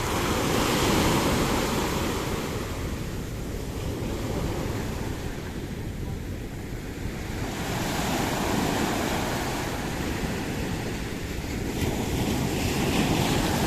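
Sea waves washing onto the shore, swelling and falling back about three times, with wind buffeting the microphone.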